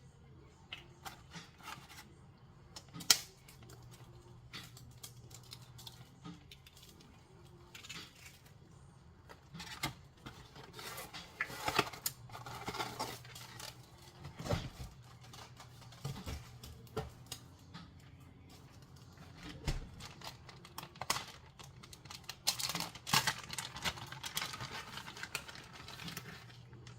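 Scattered clicks, taps and rustling of small objects being handled, over a faint steady low hum.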